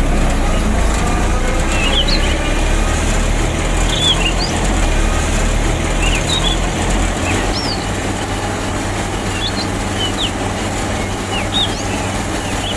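Miniature wheat thresher machine running steadily, an even rushing noise over a low hum, with short bird chirps several times across it.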